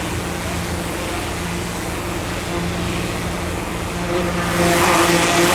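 Two EMD GP40-series diesel locomotives running light, a steady engine drone that grows louder and noisier about four and a half seconds in as they come close.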